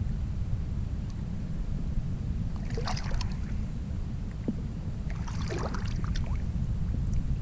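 Wind buffeting the microphone: a steady low rumble, with a few brief crackling handling noises about three seconds in and again around five to six seconds in.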